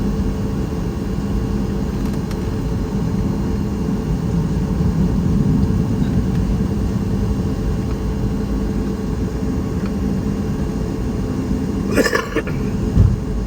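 Steady low rumble of a Boeing 737 MAX 8 airliner heard from inside the front of the cabin, with a faint steady hum, its CFM LEAP-1B engines running. About twelve seconds in there is a brief rattle, and a low thump follows a second later.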